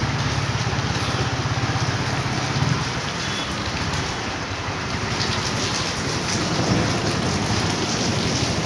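Motorcycle engine running at low revs under a steady hiss of heavy rain; the engine drops back for a couple of seconds midway, then picks up again.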